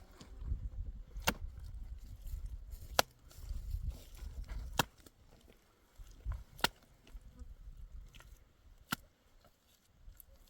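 About five sharp knocks, roughly two seconds apart, with a low uneven rumble between the first few.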